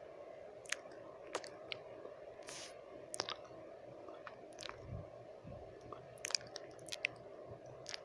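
Close-miked wet mouth sounds: irregular lip smacks and tongue clicks, with a short breathy puff about two and a half seconds in, over a steady low hiss of white noise.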